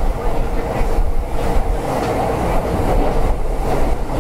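JR East E231 series 500 Yamanote Line train heard from inside the passenger car while running: a steady low rumble of wheels on rail, knocks over rail joints, and a steady whine that fades near the end.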